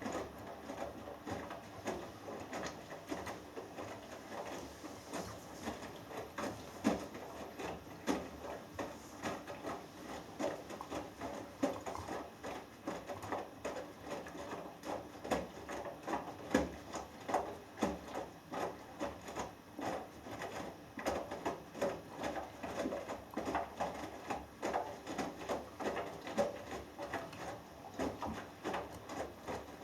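Hoover Dynamic Next washing machine tumbling a load of laundry in its drum during the wash, with irregular soft thumps and swishes as the clothes fall.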